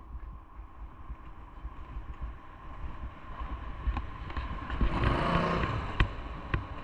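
A motor vehicle passes close by, swelling and fading about five seconds in, over a steady low rumble. A few sharp clicks come near the end.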